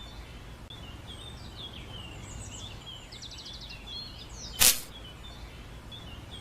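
Small birds chirping and trilling, with one short, loud whoosh about four and a half seconds in.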